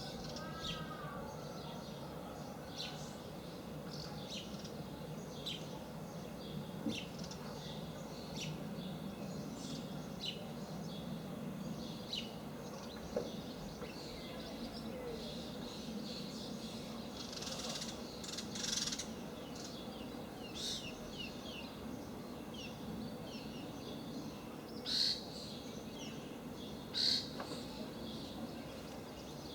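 Small birds chirping on and off over a steady low rumbling drone. The drone is presented as a strange rumbling sound coming from the sky.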